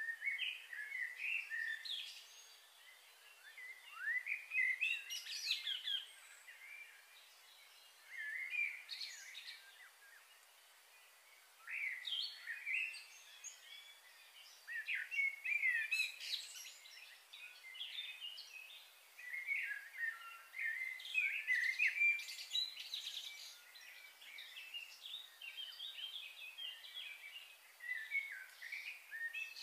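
Birds chirping and singing in clusters of quick rising and falling notes, with quieter gaps of a second or two between them.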